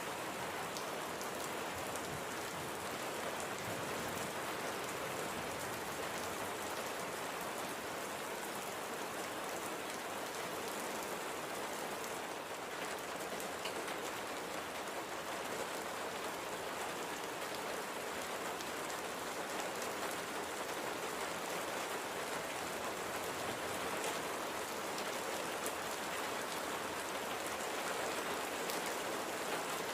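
Steady light rain: an even hiss of rainfall with the faint patter of separate drops.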